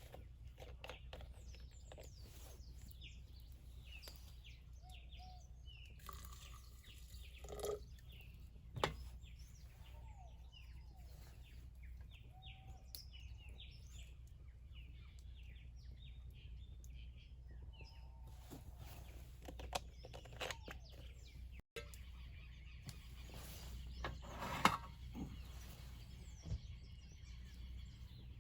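Wild birds chirping and calling, many short high chirps and some lower arched calls, over a steady low rumble. A few sharp knocks stand out, and the sound drops out for an instant a little past two-thirds through.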